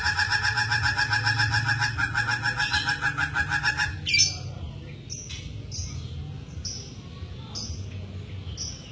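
Hooded butcherbird calling: a rapid, even pulsing trill that stops about four seconds in. A sharp loud note follows, then short high chirps about once a second.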